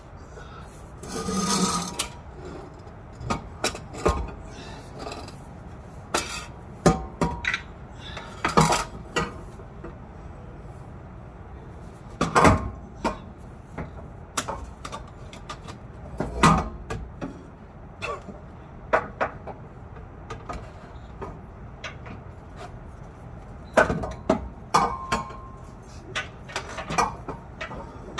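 Metal exhaust pipe and muffler sections clanking and knocking irregularly as they are handled and fitted into place, a few knocks ringing briefly.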